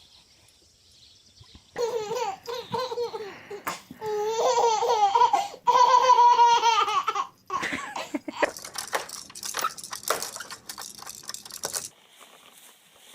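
A baby laughing in long, high, wavering peals from about two seconds in, breaking off about seven seconds in, followed by several seconds of choppier, noisier sound that stops about twelve seconds in.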